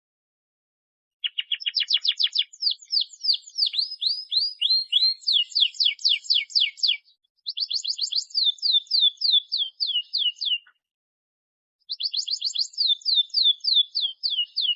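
Domestic canary singing in three long phrases of fast, high trills. Each phrase is a rapid run of quick repeated notes sweeping downward, with short silent breaks between the phrases.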